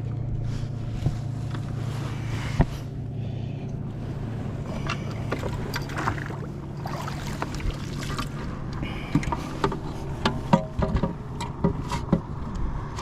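Handling noises aboard a fishing kayak: scattered knocks and taps on the hull and gear, coming thicker in the second half, over a steady low hum.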